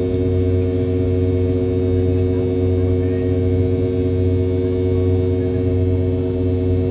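Steady in-cabin drone of a Boeing 717 climbing after takeoff, from its two rear-mounted Rolls-Royce BR715 turbofans: an even hum with several held tones and no change in pitch.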